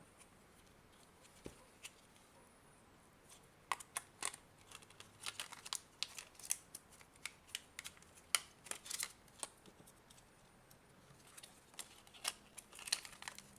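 Scattered small clicks and taps of hand tools and small plastic parts being handled and set down on a workbench, irregular and light.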